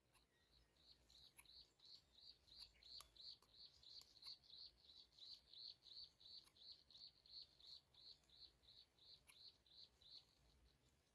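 Faint, high-pitched chirping: a steady train of short chirps, about four a second, that stops shortly before the end.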